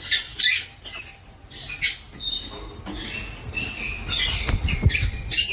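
Nestling birds peeping, many short high squeaky calls again and again, with a low bump or two near the end.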